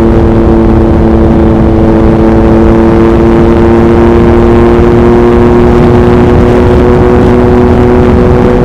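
Yamaha MT-09 (2021) inline three-cylinder engine through an Akrapovič racing exhaust, holding a steady, near-constant engine note at highway cruising speed. Heavy wind noise on the microphone runs underneath.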